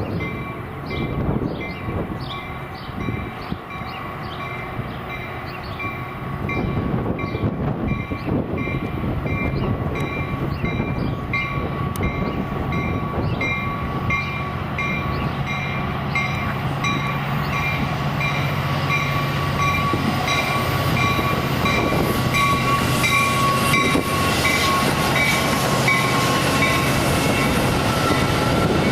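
A train passing a grade crossing while the crossing bell rings in a fast, steady, repeating ding. The locomotive's low engine rumble comes in and grows louder from about six seconds in.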